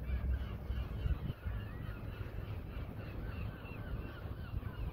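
Birds calling: many short, overlapping chirping calls, several a second, over a steady low rumble.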